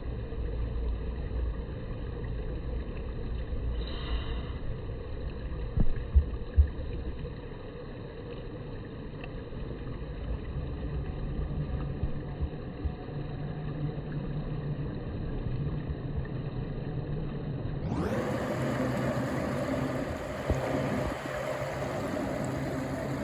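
Steady outdoor background rumble picked up by a smartphone microphone, with a few sharp knocks about six seconds in. Near the end the noise turns brighter and fuller.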